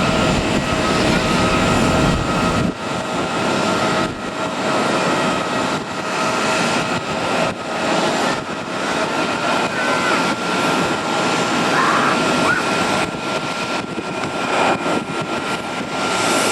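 Jet airliner engines running loud with a steady high whine over a broad rush; the deep rumble drops away about three seconds in.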